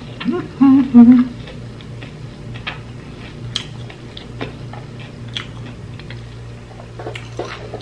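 A man gives a pleased, voiced "mmm" hum about a second in while eating. After it he chews soft caramelized saba banana (banana cue) with his mouth closed, making scattered soft, wet mouth clicks.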